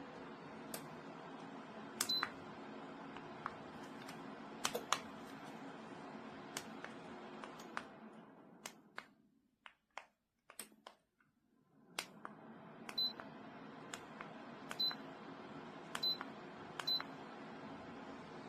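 Sharp clicks, several of them carrying a short high beep, over a steady low hum; the hum fades out for a few seconds around the middle and returns. Typical of an electric space heater's control buttons being pressed while it runs.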